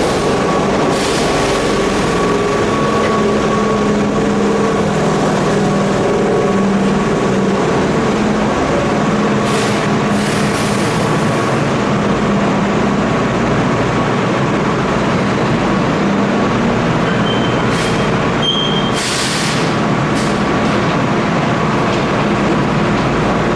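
Keihan Main Line electric train at the platform, a steady loud hum of its running machinery with two short hisses of released air, about ten seconds in and again a few seconds before the end.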